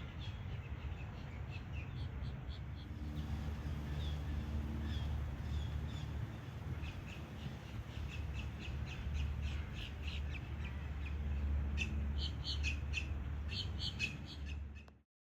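Birds giving many short, harsh, caw-like calls, coming thicker and faster in the second half, over a steady low rumble. The sound cuts off abruptly near the end.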